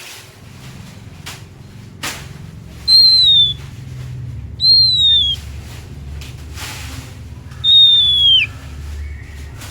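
Oriental magpie-robin (kacer) singing: three loud, clear whistles, each sliding down in pitch, spaced a second or two apart, with a few short scratchy notes between them over a low steady rumble.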